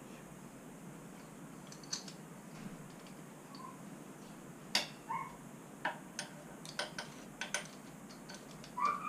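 A run of sharp clicks and taps, like tools and small engine parts being handled during reassembly, most of them bunched in the second half. A few short chirping squeaks fall between them, one rising near the end.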